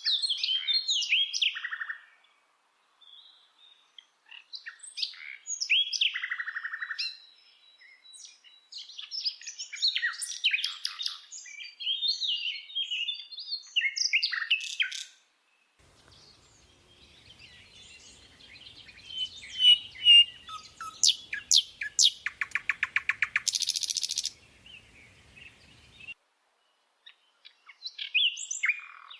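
A bird singing phrases of varied chirps, whistles and quick trills, broken by short pauses. Near the end comes a fast, buzzy rattle.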